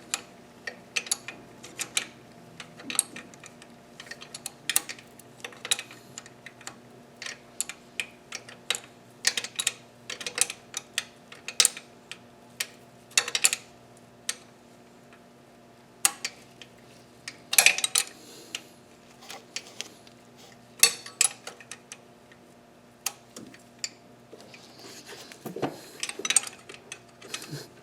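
Irregular metallic clinks and taps of hand tools and bolts being worked by hand on an engine's intake bracket.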